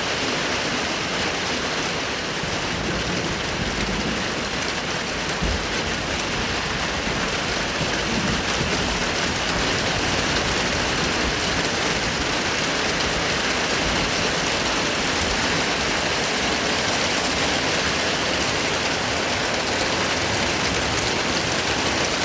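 Heavy rain coming down hard on surfaces, a dense, steady hiss.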